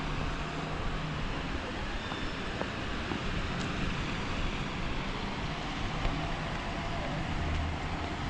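Steady city-street noise on a wet day: traffic on wet roads with a low engine hum underneath.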